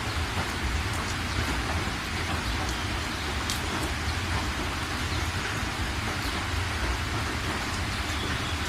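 Steady rain falling, with a few sharp single drop ticks here and there and a steady low rumble underneath.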